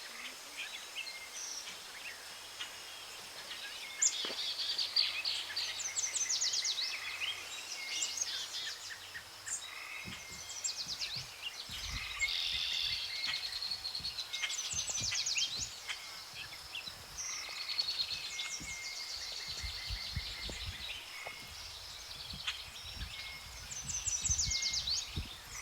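Tropical forest birds singing: several birds giving fast repeated high trills and chirps, over a faint steady high tone. Low rumbles of wind on the microphone come and go in the second half.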